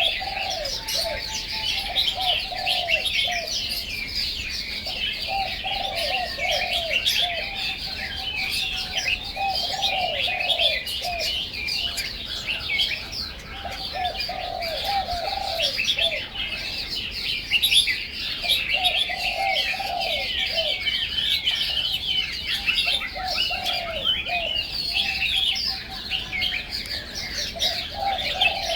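Birds singing: a dense, continuous mass of high chirps and twitters, with a lower warbling phrase repeated in groups every few seconds.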